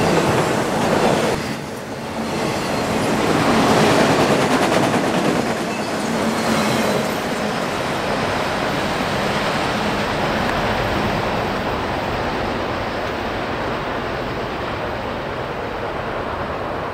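Freight train of autorack cars rolling past, steady wheel and rail noise. About seven seconds in, the last car goes by and the sound drops and dulls as the train rolls away.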